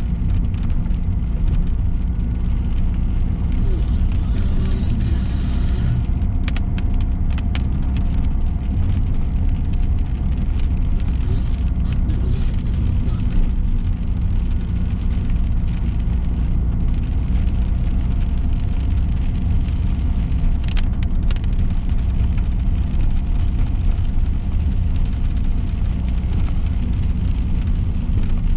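Steady low rumble of a car's engine and tyres heard from inside the moving car on rain-wet roads, with a brief louder hiss about four to six seconds in and a few faint clicks.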